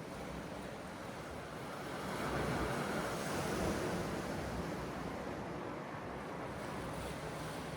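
Sea surf washing in, one wave swelling up about two seconds in and easing off, with wind.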